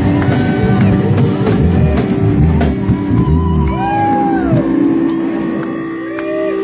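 Live rock band playing, with electric guitar notes bending up and down over bass and drums and a long held note, the music stopping abruptly just after the end.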